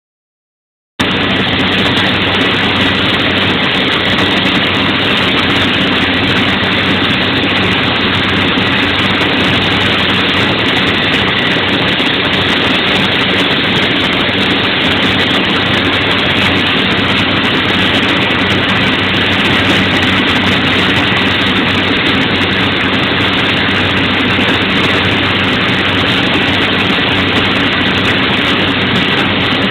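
The big diesel engine of an oilfield frac pump unit running steadily and loudly at a constant speed, starting about a second in. The unit is on fire, which is put down to either a bad turbo oil seal or a bad diesel injector.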